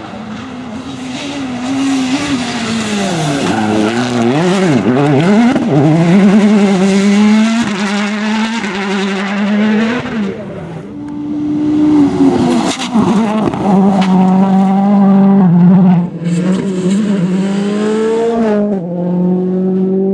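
Rally car engine at high revs, the pitch climbing and dropping again and again through gear changes and lifts. It grows louder over the first couple of seconds and breaks off briefly twice, about halfway and near the end.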